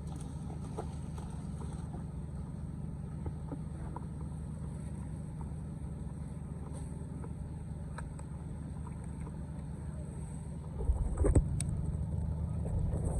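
Floodwater draining into a cleared storm drain: a steady low rush of water, with a louder surge and a few knocks about eleven seconds in.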